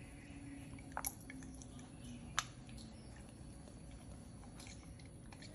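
A puppy chewing its food, with sharp clicks about one second in and about two and a half seconds in.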